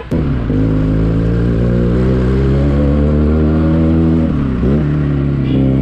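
Motorcycle engine pulling under way, its pitch rising slowly, with a brief dip in revs about four and a half seconds in before it picks up again.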